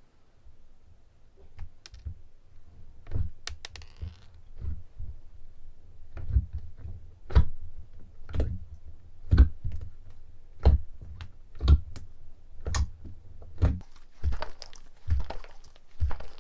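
Slime being pressed and squeezed by hand, giving sharp clicking pops with a dull thud under each, about once a second and a little faster near the end.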